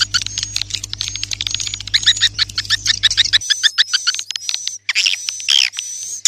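Edible-nest swiftlets calling: a dense run of rapid chirps and twitters, with longer buzzy trills later on. This is a swiftlet lure call ('suara panggil'), made to draw swiftlets to a nesting house. A low steady hum underneath stops about halfway through.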